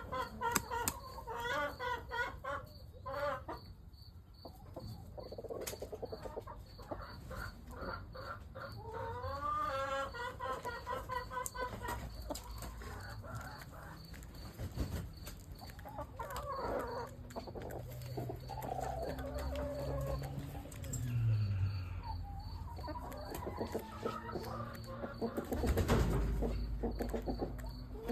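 Chickens clucking and calling, with a rooster among them and a crow partway through. Near the end there is a brief low thump, like a bump against the microphone.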